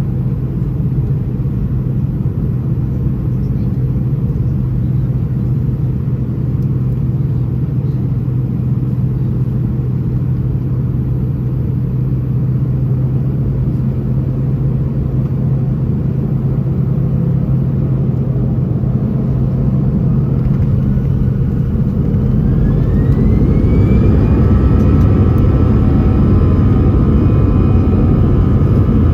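Airbus A320 cabin rumble, a steady low hum while taxiing. From about 20 seconds in, the CFM56 turbofan engines spool up: a whine rises in pitch over a few seconds, then holds as the overall noise grows a little louder, as at the start of the take-off run.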